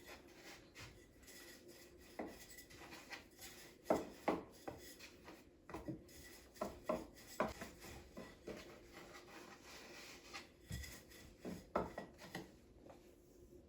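Irregular light knocks and scraping strokes of handwork, about a dozen, unevenly spaced.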